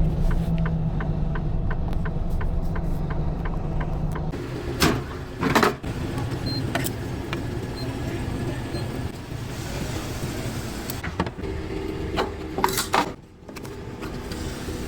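Truck engine running steadily, with a few sharp knocks and clicks partway through.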